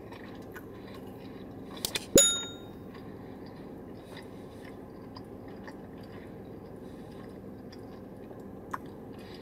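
A person quietly chewing a mouthful of crispy chicken wrap against a steady low background hum, with a sharp click and a short bright ding about two seconds in.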